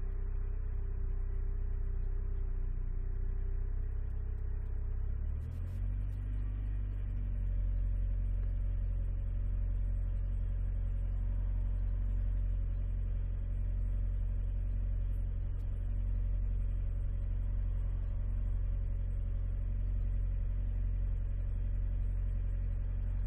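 Alfa Romeo 156 engine and road rumble heard from inside the cabin while driving. About five seconds in there is a short click and the engine note shifts, then it runs steady again.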